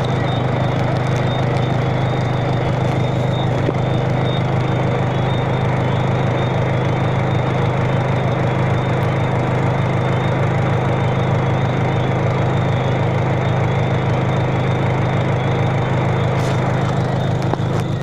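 Steady rain falling, over a loud, even, low mechanical drone that pulses finely throughout.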